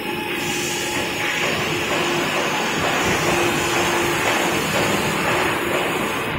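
Industrial woodworking boring machine running: a steady mechanical rushing noise from its drill spindle motors, with a hum that comes and goes.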